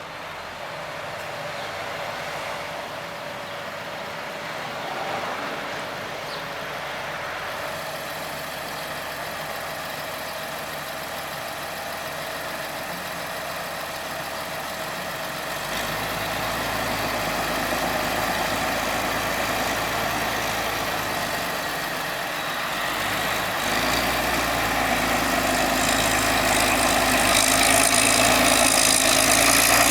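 Massey Ferguson 7499 tractor's diesel engine running steadily while pulling a plough, with a held mid-pitched engine tone, growing steadily louder as the tractor comes closer and its deep rumble building in the second half.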